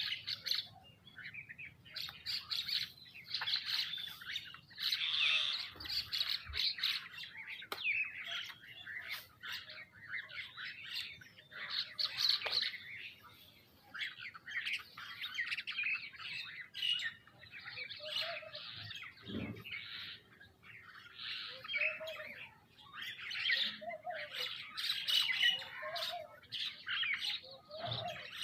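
A mixed flock of birds chirping and squawking constantly over one another while feeding, with short lower calls mixed in over the second half.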